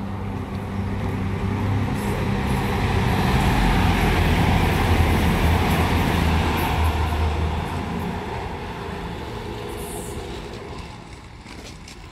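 CrossCountry Voyager diesel multiple unit passing close by: its underfloor diesel engine hum and wheel-and-rail noise grow louder, peak around four to six seconds in, then fade away.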